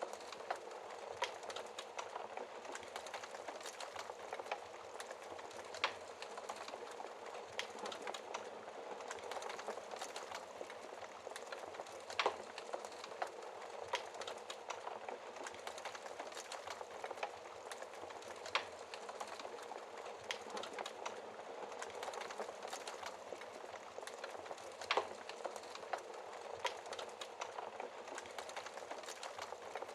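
Wood fire burning in a fireplace: a steady hiss and crackle of burning logs, with sharp louder pops every few seconds.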